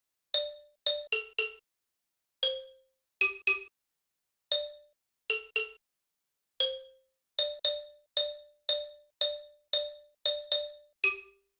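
A run of bell-like chime notes, struck one at a time on two or three pitches, each ringing out and dying away. They are spaced unevenly at first, then fall into a steady run of about two notes a second.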